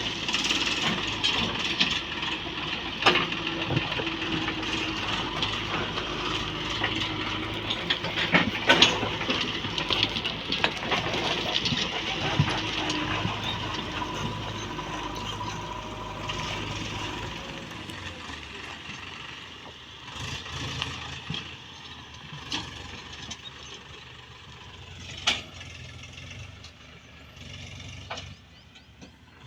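A heavy machine's diesel engine running steadily, with metallic knocks and rattles. The engine sound drops away about two-thirds of the way through, leaving quieter scattered knocks.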